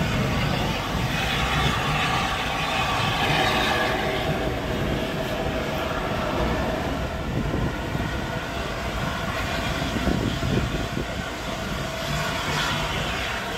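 A train running, a steady rumbling and rolling noise that holds throughout.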